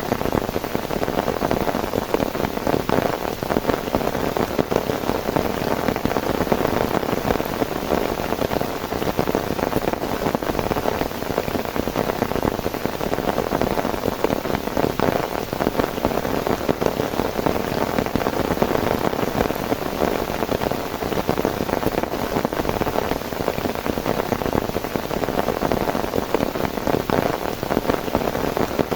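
Heavy rain falling steadily: a dense, even patter of many drops hitting a surface, with no pause or change.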